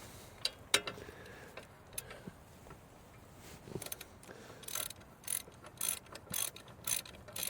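A hand ratchet wrench being worked in repeated strokes, its pawl clicking in short bursts about twice a second, as bolts are run in during brake reassembly on a truck. The strokes are preceded by a few scattered metal clinks of tools and parts.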